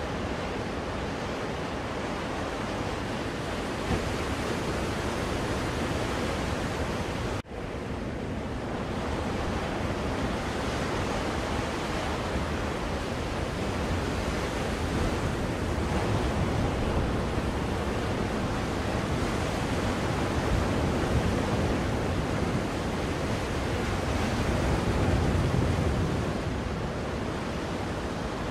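Recorded ocean waves washing on a shore, a steady rush with slow swells in loudness, played as soothing white noise. The sound briefly cuts out about seven seconds in.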